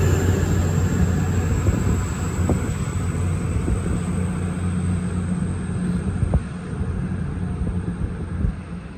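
Diesel train running with a steady low engine hum and a high whine, gradually fading, with a few faint clicks.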